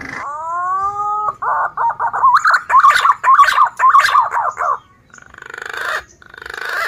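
Male punai daun (green pigeon) singing. It gives long rising whistles, then a fast run of warbling whistled notes, and near the end two harsher, rasping stretches.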